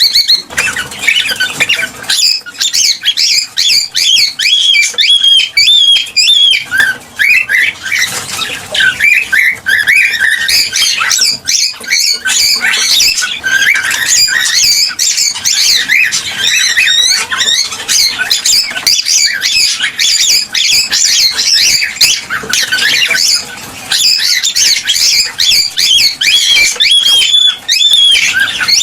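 Cockatiels chirping and whistling without pause, many short overlapping calls at once.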